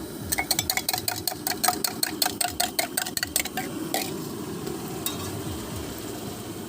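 A metal utensil clinking quickly and evenly against a cooking vessel at a street-food egg roll stall, about six strikes a second for about three seconds, then one last strike. A steady low rumble of the stall's cooking runs underneath.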